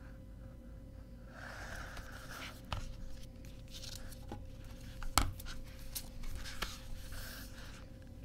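Hands handling CD box-set packaging: soft rustling with scattered light clicks and taps, the sharpest about five seconds in.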